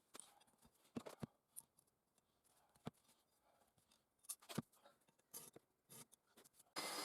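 Faint, scattered light clicks and taps, a few at a time with quiet gaps between. Just before the end, a steady hissing machine-like noise starts abruptly.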